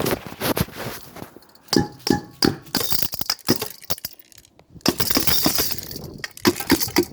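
Ceramic balls and granular filter media clinking and rattling as they are shaken and tipped out of a cut-open plastic filter cartridge, with many sharp clicks and two longer runs of hissing, pouring grains.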